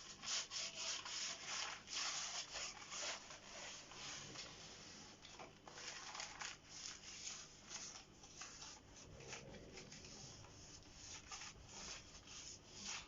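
Crumpled newspaper rubbed back and forth over a fireplace's glass door, a dry rustling scrape in quick irregular strokes as cleaner-softened soot is wiped off. The strokes are stronger in the first few seconds and lighter after.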